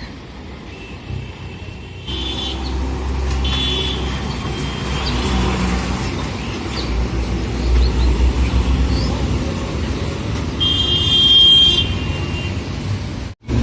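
Diesel truck engine running in road traffic with a low rumble, and a vehicle horn honking: two short blasts a couple of seconds in and a longer one near the end.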